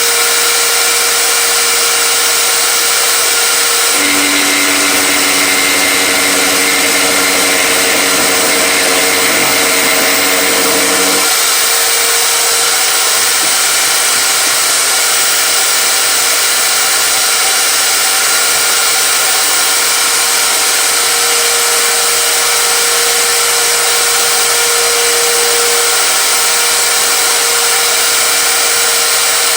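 A power tool motor running steadily and loudly, with a steady whine; from about four seconds in until about eleven seconds in, a second, lower motor hum joins it and then stops.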